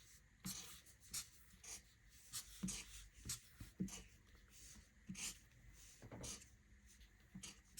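Faint scratching of a marker drawing short strokes on paper, about a dozen quick lines at one to two a second, as the slanted lines of rain are drawn.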